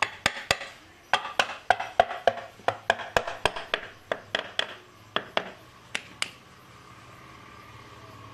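An irregular run of sharp clicks and metallic clinks, about two dozen in six seconds, as tools or small metal parts are handled. They stop about six seconds in, leaving a faint steady hum.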